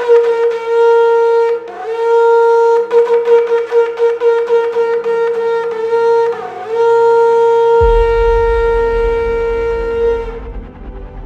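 A shofar blown in three long held blasts on the same note, each scooping up into pitch at its start. A low rumbling music bed comes in under the last blast, and the horn stops shortly before the end.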